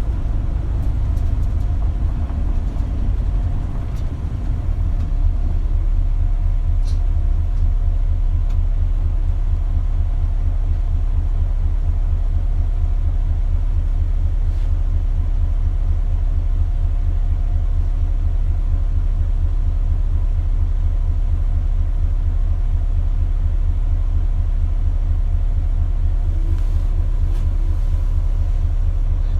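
Isuzu KL-LV280L1 city bus's diesel engine running, heard from inside the passenger cabin: a steady, evenly pulsing low rumble with a faint whine above it. It eases briefly a few seconds in, then holds steady.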